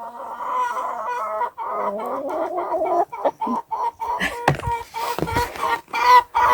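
Chickens calling: a long, drawn-out call that wavers in pitch over the first few seconds, then a quick run of short clucks from about four seconds in.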